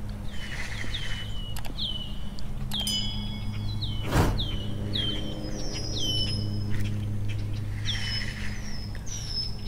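Birds calling: a long string of short chirps that fall in pitch, about one or two a second, over a steady low hum. A single sharp click about four seconds in.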